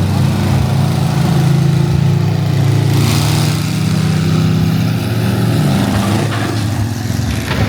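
Monster truck engine running loudly, its pitch shifting a little as it revs, with a brief rush of noise about three seconds in.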